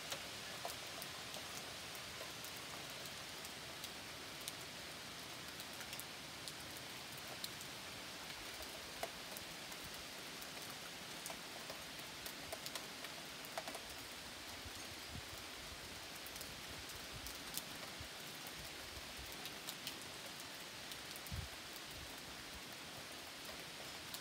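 Rain falling steadily, an even hiss with scattered drops ticking close by.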